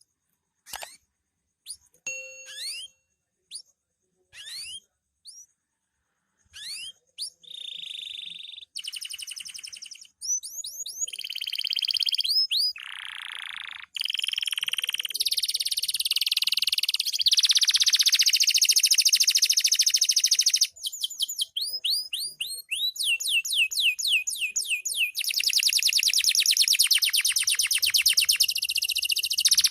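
Canary singing: a few short, scattered rising chirps at first, then, from about a quarter of the way in, a loud, nearly unbroken song of rapid trills and quick runs of rising notes.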